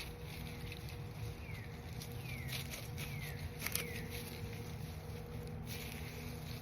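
Soil and potato plants rustling and scraping with scattered light clicks, the loudest about three and a half seconds in, from potatoes being dug up. A few short falling chirps sound in the background.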